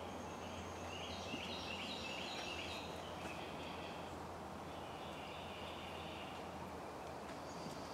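Birds singing faintly: rapid runs of short, high chirps that come in spells, over a steady low hum of outdoor background noise.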